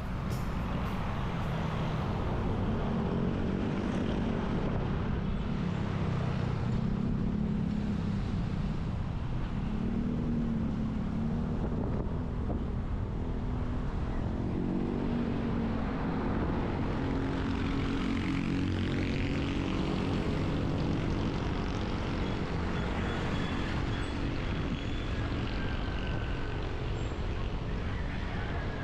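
Road traffic on a highway: vehicle engines running steadily under a constant rumble of road noise, their pitch rising and falling several times as vehicles speed up, slow down or pass.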